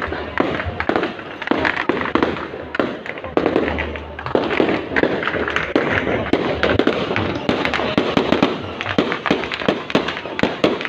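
Fireworks going off in a dense, continuous volley: many sharp cracks and pops in quick succession over a low rumble of heavier bursts.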